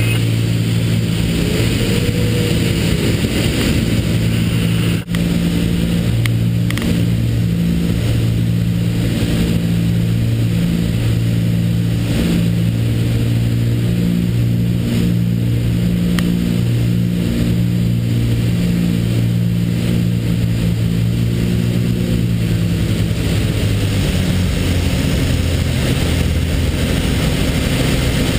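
Cessna 310R's twin six-cylinder Continental piston engines and propellers running with a steady drone. There is a brief dropout about five seconds in, and the pitch settles lower about 23 seconds in.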